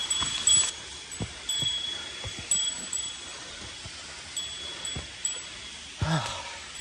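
A small metal bell ringing with a high, clear tone, struck again and again at an uneven pace, with soft thuds underneath and a short louder rustle about six seconds in.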